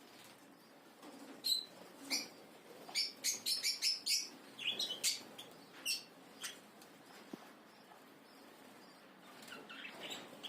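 Caged pet birds chirping: a quick run of short, sharp calls, densest a few seconds in, then a lull and a few softer calls near the end.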